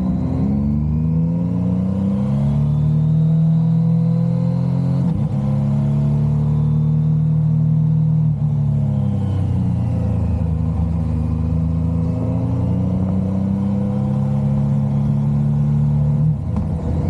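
Motorcycle engine under way, pulling steadily with short dips in pitch at gear changes about five and eight seconds in. The engine sinks lower for a couple of seconds, then climbs again, with another quick shift near the end.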